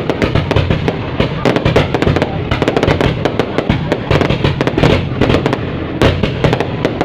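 Fireworks going off in rapid succession: a dense, unbroken string of bangs and crackles, several a second.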